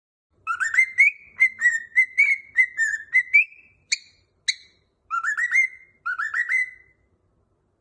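A cockatiel whistling a tune: a quick run of whistled notes, two short sharp chirps about four seconds in, then two rising whistled phrases.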